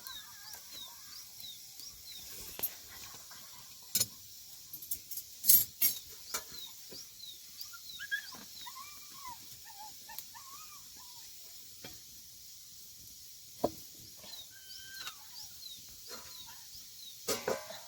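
Birds calling with short whistled notes over a steady high hiss. Scattered sharp knocks and clatters, loudest about five to six seconds in, with a quick cluster near the end.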